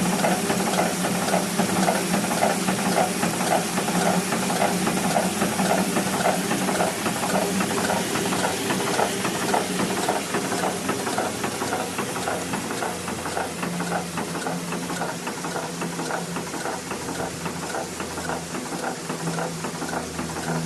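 Circa-1891 6-inch Rider-patent two-cylinder hot air pumping engine built by Otto Boettger, running at a steady speed with an even, rhythmic mechanical clatter. It grows a little quieter in the second half.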